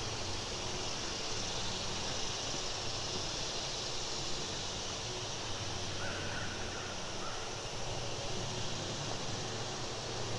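Steady outdoor swamp ambience, an even hiss with a faint, brief wavering call about six seconds in.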